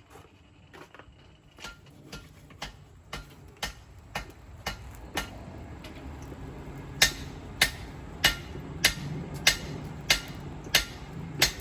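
Hand hammer striking a knife blade being forged on an anvil, in a steady rhythm of about two blows a second. The blows grow louder, pause briefly about halfway, then come back as heavier ringing strikes, with a low steady hum underneath.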